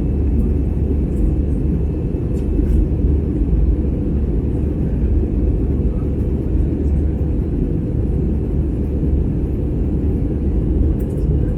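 Airbus A320 cabin noise: a steady, deep rumble from the jet engines and airflow, unchanging in level.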